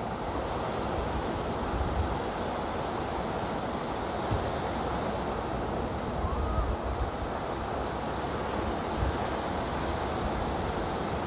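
Ocean surf washing steadily onto a beach, with wind buffeting the microphone now and then.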